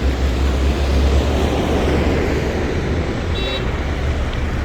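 Road traffic on a rain-wet city street: a steady hiss with a vehicle's low engine rumble, heaviest in the first two seconds. A brief high beep sounds about three and a half seconds in.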